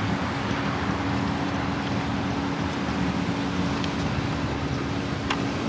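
Steady mechanical hum with a rushing, wind-like noise from the hot engine bay of a 2020 Shelby Mustang GT350R with the hood up, and a small click about five seconds in.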